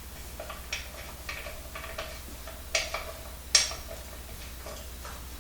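A handful of irregular, light clicks and clinks of small hard objects being handled, the loudest about three and a half seconds in, over a faint steady low hum.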